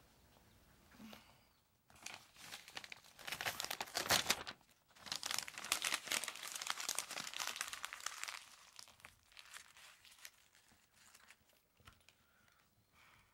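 A sheet of writing paper being crumpled up in the hands: a crackling rustle that starts about two seconds in, comes in waves for several seconds, then dies down to a few faint rustles.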